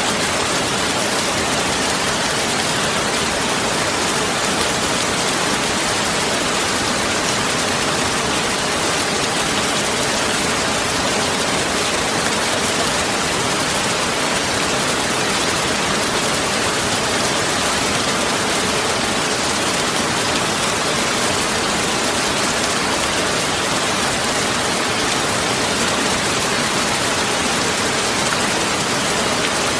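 Steady heavy rain, an even hiss that holds without let-up or any thunderclap.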